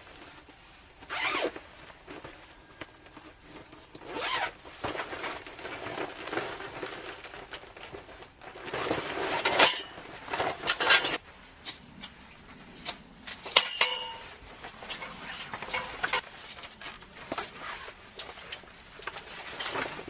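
Zipping and rustling of fabric or gear being handled, in a series of separate swishes with scattered small clicks.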